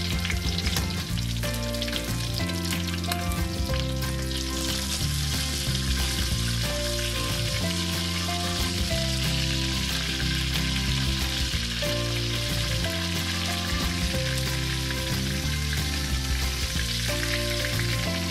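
Chicken wings frying in hot oil in a wok, a steady sizzle, stirred and scraped with a metal spatula; the sizzle grows louder about four seconds in. Soft background music plays underneath.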